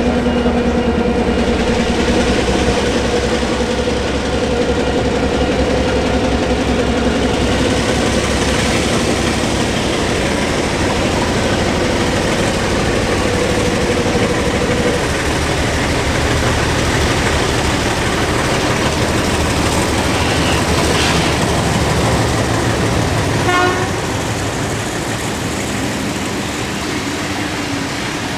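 Heritage train hauled by locomotives R766 and 4537 running past, loud and steady, with a droning tone over the first half that fades out, then the rolling rumble of the carriages, which eases slightly near the end.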